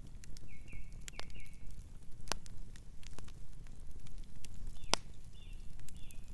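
Wood fire crackling, with scattered sharp pops over a low rumble of the flames; the two loudest pops come about two and a half and five seconds in. A bird calls in short repeated notes twice, about half a second in and again around five seconds.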